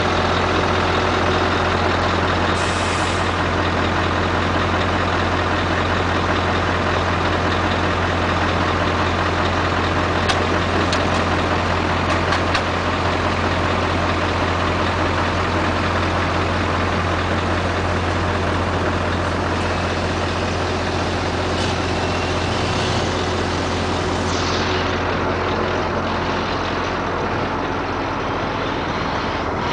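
Scania R560's 16-litre V8 diesel with an open exhaust running steadily at idle, a deep even drone. A short hiss comes about three seconds in.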